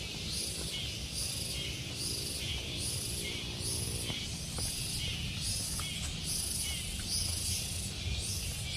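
Tropical forest insects calling in a high, shrill chorus that pulses evenly a little more than once a second, over a steady low rumble.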